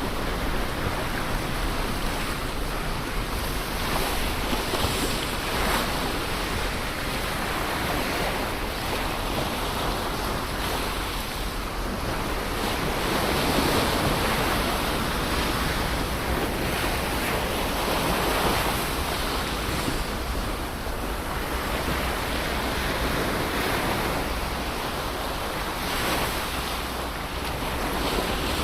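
Ocean surf: waves breaking and washing ashore continuously, swelling louder every few seconds.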